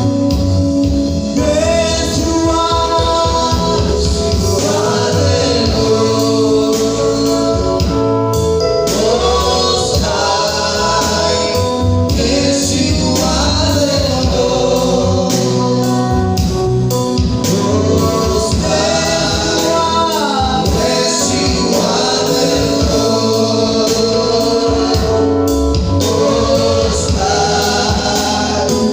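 Gospel worship song: lead and choir voices singing over bass, keyboard and a steady beat.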